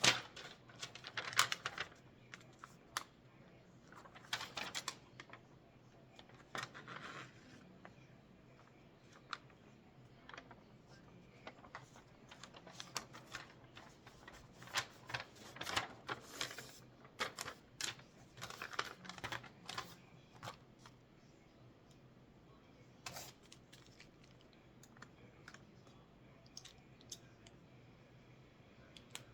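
Irregular small clicks, taps and short rustles of guitar pickups and small hardware being handled, with no steady rhythm.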